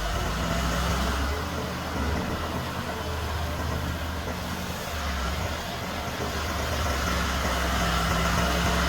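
A heavy diesel machinery engine running steadily at low revs, growing a little louder toward the end.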